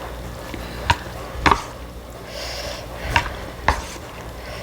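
Utensils knocking against a pot of ramyun noodles, four sharp clicks spread over the few seconds, with a brief hiss about halfway through.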